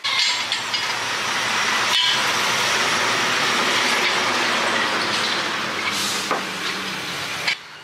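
Loud, steady rushing hiss of compressed-air workshop equipment, starting abruptly and cutting off after about seven and a half seconds.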